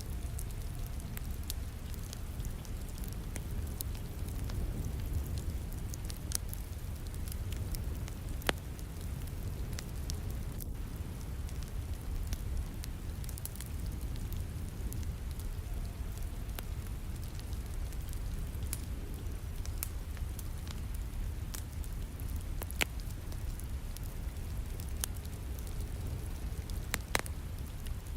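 Wood fire crackling in a fireplace, with scattered sharp pops, over a steady wash of falling rain.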